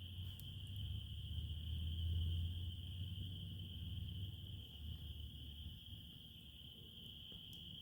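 Crickets chirring in a steady, unbroken high-pitched chorus, over a low rumble that fades after about six seconds, with a couple of faint clicks.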